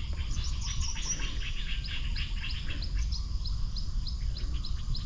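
Birds calling from the surrounding trees: one bird repeats a short, high, falling chirp about three times a second over a busy chorus of other calls, with a low rumble underneath.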